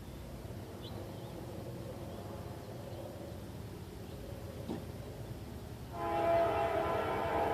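Low, steady rumble of a train on the rails, then about six seconds in a locomotive air horn sounds a long chord of several notes, the loudest thing here.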